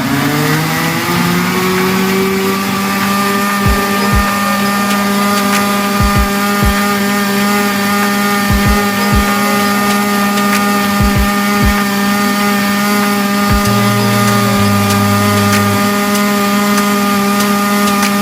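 Countertop blender motor spinning up to full speed, its pitch rising over the first couple of seconds, then running steadily and loudly as it purées fruit, kale and water into a smoothie.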